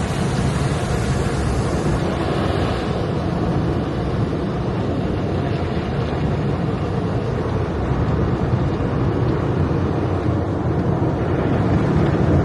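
Steady rushing noise with a low rumble, heard from inside a car going through an automatic car wash: water spray and wash machinery against the car.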